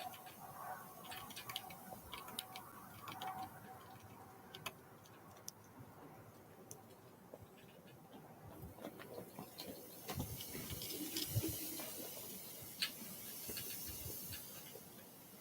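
Irregular light ticks and taps, scattered throughout, with a few faint short high chirps. A soft hiss swells in the second half.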